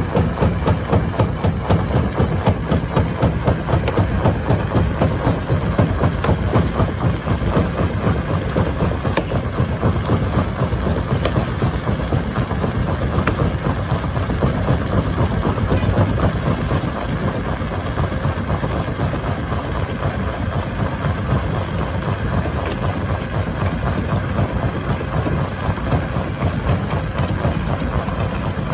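Stone crusher machinery running: a steady, heavy mechanical drone with a fast, even pulsing and a few faint knocks.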